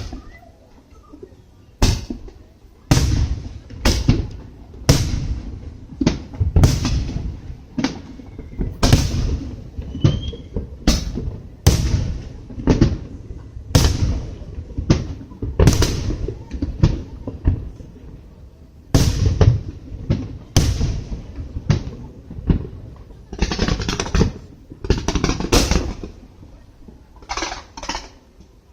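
Aerial fireworks shells bursting overhead, a sharp bang roughly every second, each followed by a deep rolling boom. About three-quarters of the way through, the bursts come thicker and faster for a few seconds.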